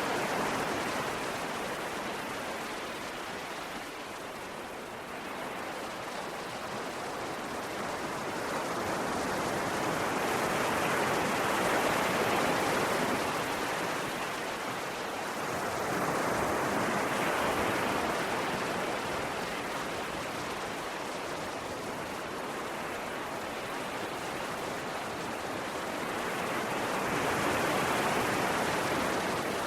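Ocean waves breaking and washing on a shore: a continuous rush of surf that swells and eases in slow surges every several seconds.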